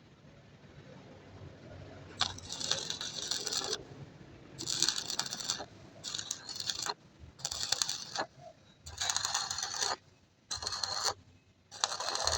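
Repeated harsh scraping strokes on metal: seven strokes of up to a second and a half each with short pauses between, starting about two seconds in.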